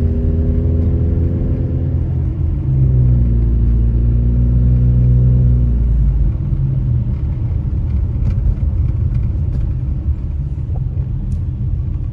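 Car driving, heard from inside the cabin: a steady engine hum that shifts pitch slightly a couple of seconds in and fades out about halfway, leaving a low road and tyre rumble.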